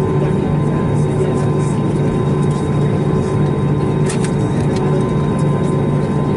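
Steady airliner cabin noise from an Airbus A321neo: the constant drone and hum of its Pratt & Whitney PW1100G geared turbofan engines and airflow, heard from inside the cabin, with a short click about four seconds in.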